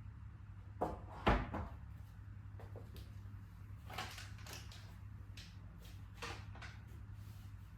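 A few knocks and clicks of kitchen items being handled and set down, the loudest about a second in, over a low steady hum.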